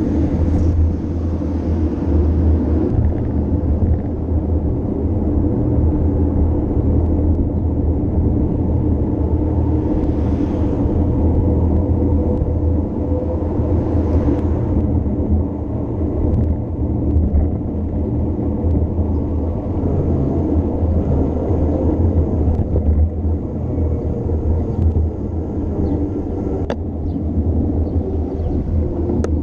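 Steady low rumble of a bicycle descent: wind and road noise on the camera microphone, with a few sharp clicks near the end.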